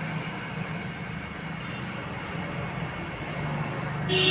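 Steady road traffic noise, with a vehicle horn sounding near the end.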